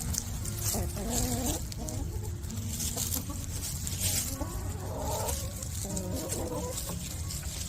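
Hens clucking and calling while they feed, with light pecking and scratching sounds.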